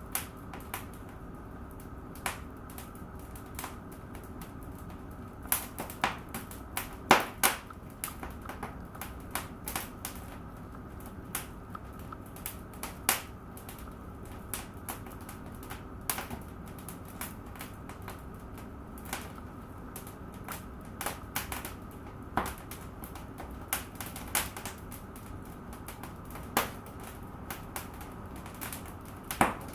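Fire burning in a fireplace, crackling with irregular sharp pops, the loudest cluster about six to eight seconds in, over a steady low hiss.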